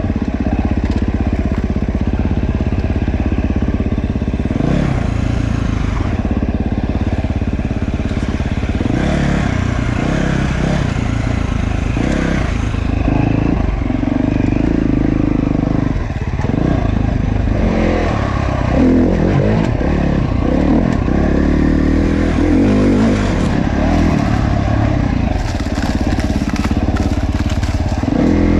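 Dirt bike engine running, its pitch shifting up and down with the throttle on a downhill single-track trail.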